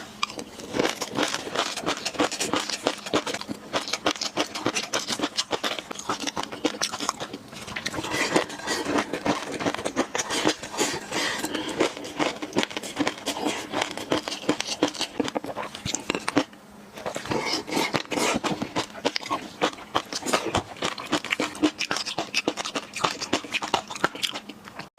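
Close-miked chewing of fish roe: a dense, fast run of small clicks and pops, with a brief pause about two-thirds of the way through.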